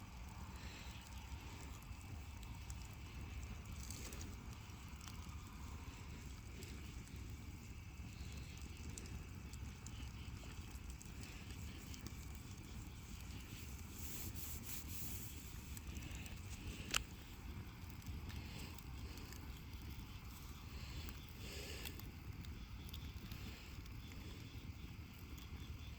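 Bonfire burning with faint scattered crackles and one sharp snap about two-thirds of the way through, over a low outdoor rumble.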